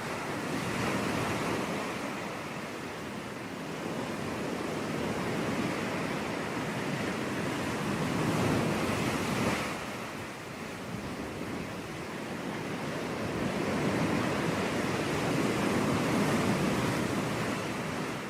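Waves breaking and washing on a beach, in slow swells with surges about a second in, around the middle and near the end, with some wind on the microphone.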